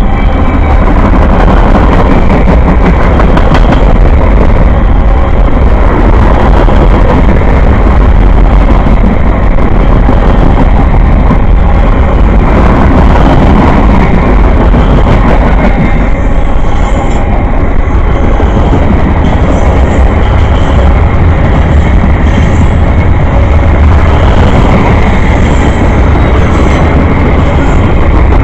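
A train passing close by: a loud, steady rumble with no breaks.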